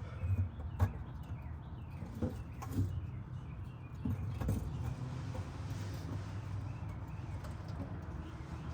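A few light knocks and clicks from hand work on the car, over a steady low hum, with faint bird chirps in the first few seconds.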